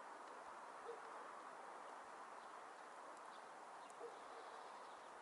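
Near silence: a steady background hiss, with two faint, very short low notes about three seconds apart.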